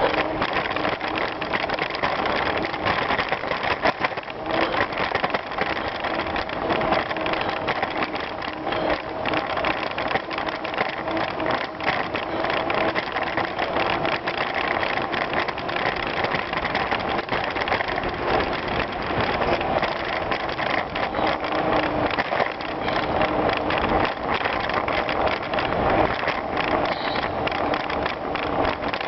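Bicycle riding over a gravel trail: steady crunching of the tyres on gravel, with dense small rattles and clicks from the bike and a faint steady hum underneath.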